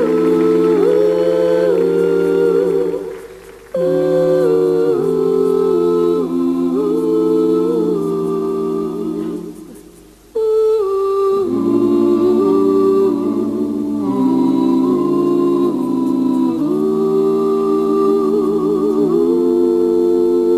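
An a cappella vocal group sings the song's introduction without words in close harmony. Several voices hold chords and shift them together, in three phrases with short breaks between them, with some vibrato in the last phrase.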